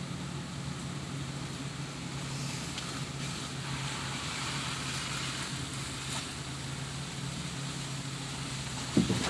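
A vehicle engine running with a steady low hum. There is a single thump near the end.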